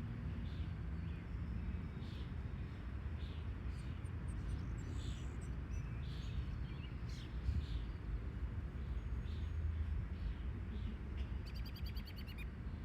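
Outdoor farm ambience: a steady low rumble under scattered short bird chirps, with a quick rapid trill of ticks near the end.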